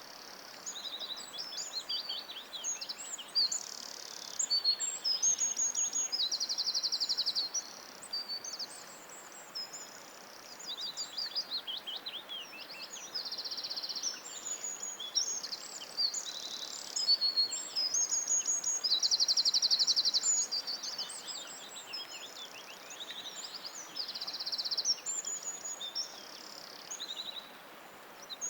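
Songbirds singing in a forest, overlapping high chirps, whistled phrases and fast trills, over a faint steady background hiss.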